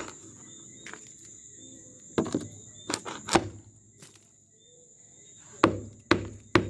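Hammer blows on wooden concrete form boards and nails: about half a dozen sharp, uneven strikes in two groups, three around two to three and a half seconds in and three more near the end.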